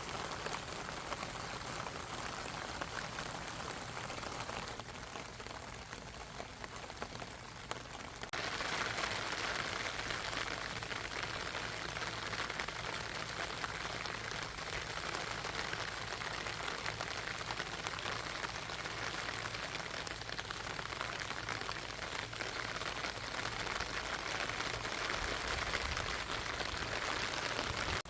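Steady rain falling, an even patter of drops. It turns quieter about five seconds in and louder again a few seconds later.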